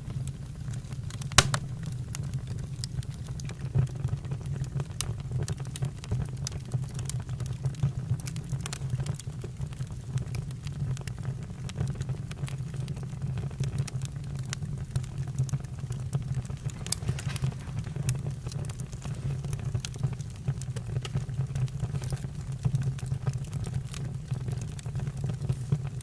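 Campfire crackling: irregular sharp pops and snaps over a steady low rumble, with one loud pop about a second and a half in.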